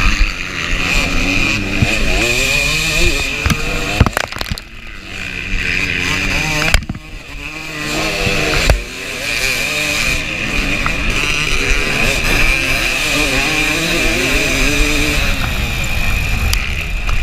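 KTM 300 two-stroke dirt bike engine revving up and down hard under racing load, with the throttle chopped off briefly about four and a half and seven seconds in before picking up again.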